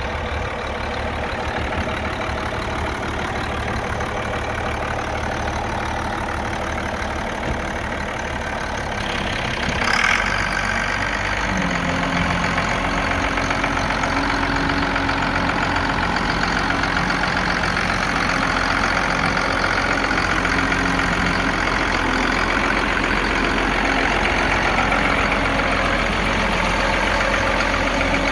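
Allis-Chalmers 7060 tractor's six-cylinder turbo diesel running steadily near idle. About ten seconds in there is a click, and after it the sound grows a little louder with a steady hum added.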